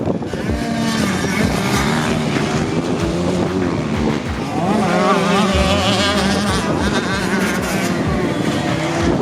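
Motocross bike engines racing, several at once, their pitch rising and falling as the riders work the throttle, with a busy stretch of revving past the middle.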